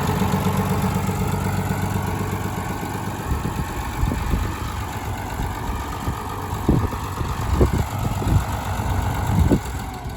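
1981 International F-786 tractor engine idling steadily; its hum dies away about three seconds in, leaving scattered low thumps.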